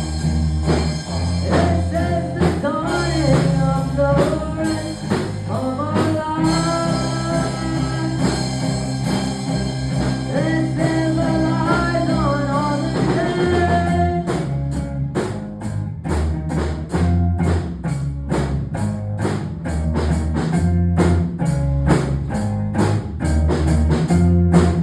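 Rock band playing live: a singer over guitar, bass and drum kit. About fourteen seconds in the singing stops and the drums and bass carry on in an instrumental passage.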